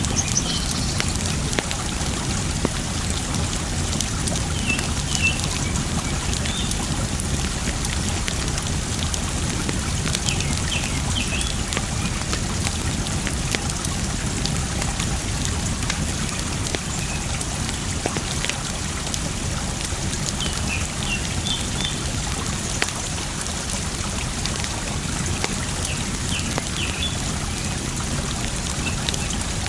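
Campfire crackling with scattered sharp pops over a steady rush of running water. Faint short bird chirps come a few times.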